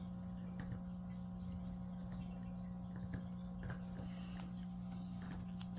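Faint soft handling noises with a few light clicks as a crocheted yarn piece is turned right side out by hand, over a steady low electrical hum.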